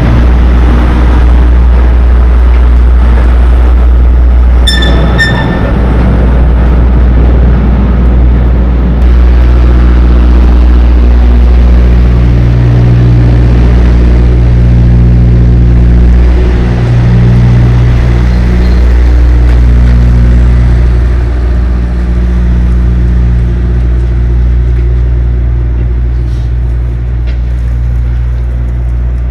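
Semi truck's diesel engine running steadily while driving, heard from inside the cab, with a brief high-pitched double tone about five seconds in.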